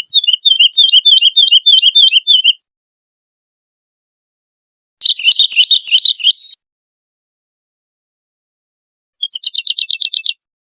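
Woodlark singing: three separate phrases with silent gaps, first a run of repeated descending notes, then a denser jumbled phrase, then a fast even trill near the end.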